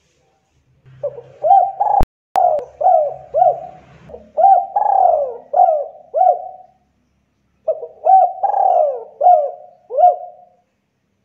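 Spotted dove (tekukur) cooing in two bouts of repeated rolling coos, with a short break between them. A sharp click sounds about two seconds in.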